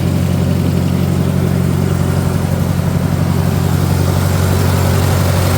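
Farmall 400 tractor's four-cylinder gasoline engine running steadily at idle. It is an engine that will only keep running on choke.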